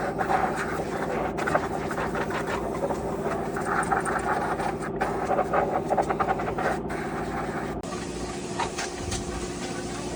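A motor runs steadily under a clatter of short metallic clicks and knocks from work close by. The sound cuts off abruptly several times, and the engine's note shifts slightly near the end.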